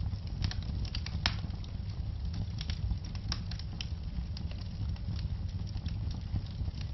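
Wood fire crackling in a fireplace: scattered sharp pops and snaps over a steady low rumble of burning.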